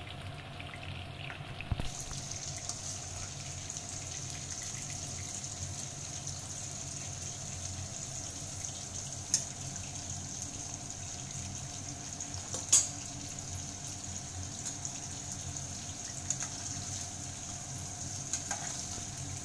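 Sweet corn kernels coated in cornflour sizzling steadily as they deep-fry in hot oil in a kadai. The high hiss of the sizzle comes up about two seconds in. A few sharp clicks of a metal spatula against the pan sound over it, the loudest about thirteen seconds in.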